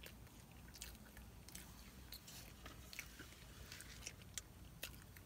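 Faint close-up chewing of a McDonald's crispy chicken biscuit, with soft mouth smacks and scattered small clicks.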